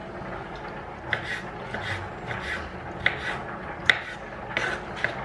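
A string of short scrapes and clicks, about nine, irregularly spaced, like objects being rubbed and set down by hand.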